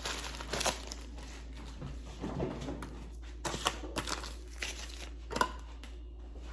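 Intermittent crinkling of plastic packaging, with a few light clicks and knocks from handling things on the kitchen counter.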